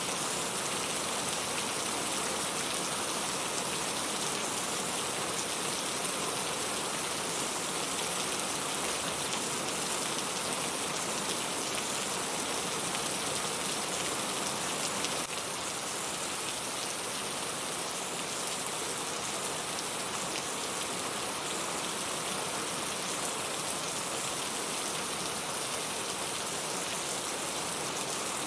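Steady rain falling, an even dense hiss with no thunder; it gets slightly quieter about halfway through.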